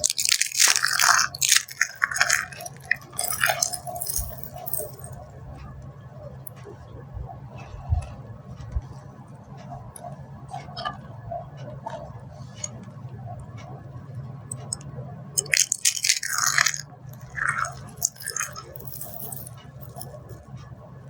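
Dry soap being crushed, a dense crisp crunching and crackling. A loud run of crunches fills the first few seconds, followed by sparser quiet crackling, then another loud run of crunches about fifteen seconds in.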